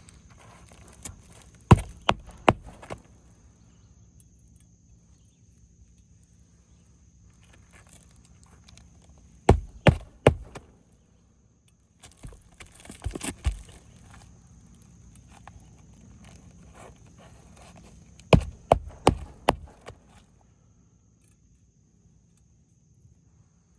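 Roofing nails being driven into asphalt shingles: short groups of three or four sharp knocks with quiet stretches between, and some rustling of the shingle around the middle.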